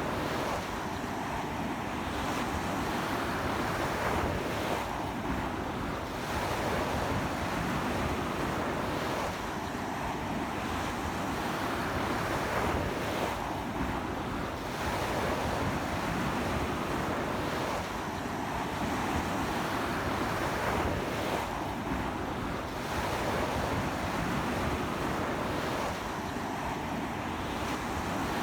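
Ocean surf washing continuously onto a beach in strong wind, the roar of the breaking waves swelling and easing every few seconds, with wind rumbling on the microphone.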